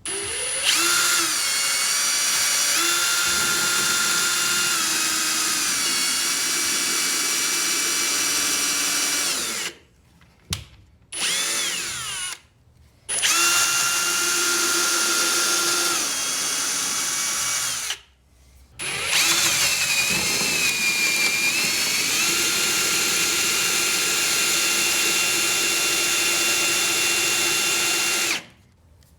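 Power drill boring holes in the side of a camper bed-platform frame: four long runs of a steady motor whine that changes pitch now and then as the speed varies, with short pauses between runs.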